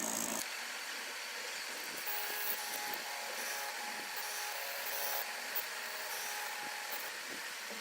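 Small stepper motors of a DIY mini CNC plotter whining in short runs, the pitch changing from run to run as the axes move, over a steady hiss.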